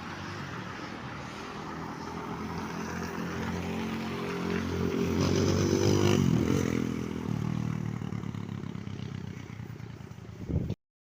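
Kayo K4 dirt bike's 250 cc engine running and being revved: the pitch climbs to a peak about six seconds in, then falls back toward idle. The sound cuts off abruptly near the end.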